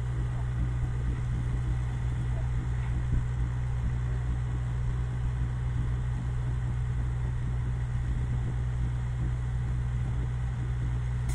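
Off-road 4x4's engine idling with a steady low rumble while the vehicle sits stuck nose-down in a mud trench.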